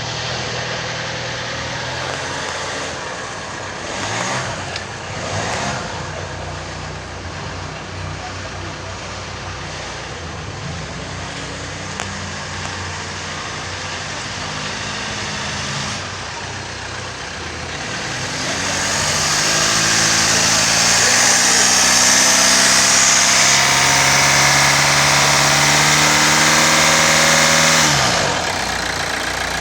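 2015 Kia Sorento's 2.2-litre four-cylinder turbodiesel running: idling with two short revs about four and five and a half seconds in, then revving up from about eighteen seconds and held high for some nine seconds before dropping back to idle near the end.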